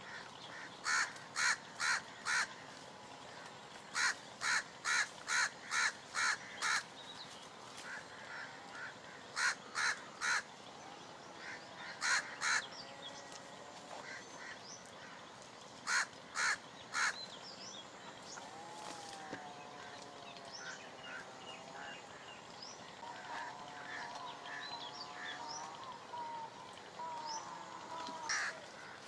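A bird calling loudly in runs of two to six short, harsh calls, about two a second, repeated several times. Quieter, whistled calls from other birds come in the second half.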